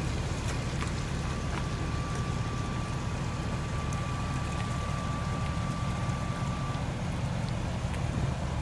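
Heavy vehicle engine running with a steady low rumble, and a thin steady whine over it that stops about seven seconds in.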